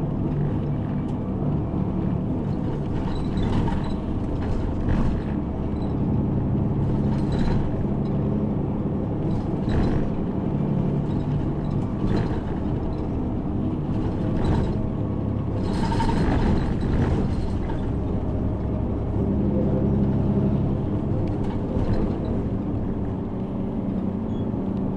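City bus running on the road, heard from inside the cabin: a steady engine drone that shifts up and down in pitch several times, over a low rumble, with short rattles and clatters from the bodywork.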